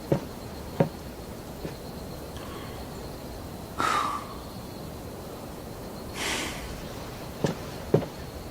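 Crickets chirring steadily in the background, with scattered soft thuds like footsteps and two brief whooshing swishes, one near the middle and one a couple of seconds later.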